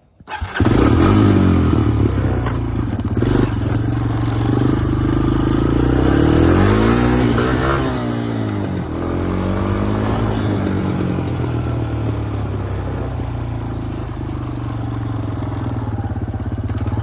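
Honda TRX250EX ATV's single-cylinder four-stroke engine running under way, starting about half a second in. Its pitch climbs and drops a few times in the middle as the rider works the throttle, then settles to a steadier note.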